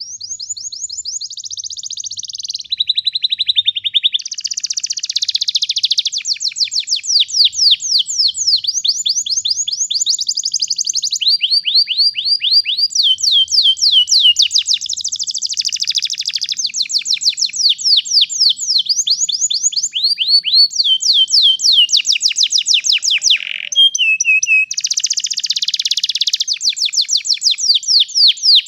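Domestic canary singing a long, nearly unbroken song of rapid rolling trills, switching between higher and lower trill phrases every second or two.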